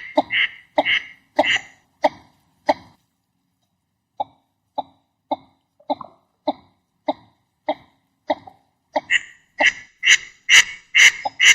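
Northern shoveler duck calls: a series of short calls, about two a second. They break off for about a second and a half, then resume softly and grow louder near the end.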